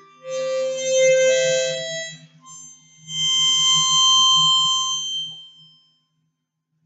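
Two bell-like strikes on a sound-healing instrument, about three seconds apart, each ringing with several high pure tones that die away over a few seconds.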